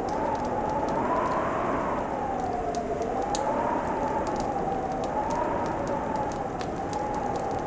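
Wood fire crackling with scattered sharp pops, over a steady rush and a howling wind tone that slowly rises and falls.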